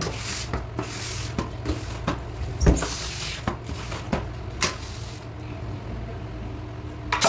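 Scattered knocks and clatter of objects being handled, with a few short hissing bursts, over a steady low hum; the loudest knock comes about two and a half seconds in.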